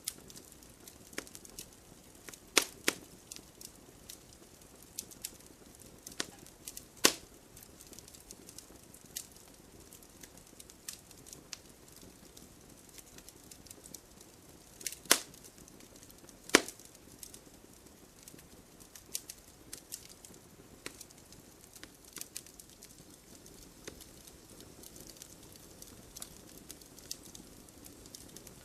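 Wood campfire crackling: irregular sharp snaps and pops over a soft hiss of burning, with a few much louder pops scattered through.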